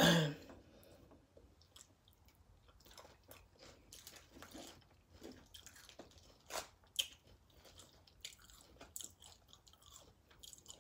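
Close-miked chewing of loaded nachos, tortilla chips crunching between the teeth, beginning with a loud bite and then irregular crunches and moist chewing.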